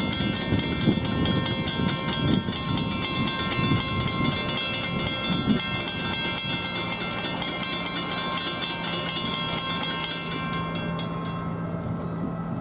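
A rail warning bell ringing in rapid, even strikes as a train rumbles past; the ringing stops about eleven seconds in, and a steady low hum joins about halfway through.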